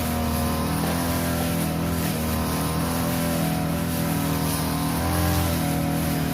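Small petrol engine of a grass-cutting machine running steadily at working speed while cutting overgrown grass, its pitch wavering slightly under the load.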